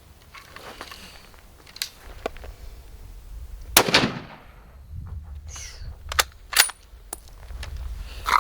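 Several gunshots at irregular intervals, the loudest about four seconds in with a short echo after it.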